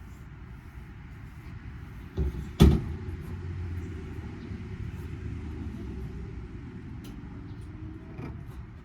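Two sharp knocks about half a second apart, a couple of seconds in, then a fainter knock near the end, over a steady low rumble. These are metal parts being worked loose while an air-conditioning unit is torn down for scrap.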